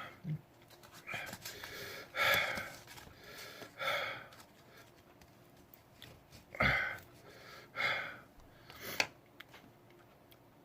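A man breathing hard in about six short, sharp breaths through the mouth, spaced a second or so apart, a reaction to the burn of a superhot Chocolate Jigsaw chili pepper.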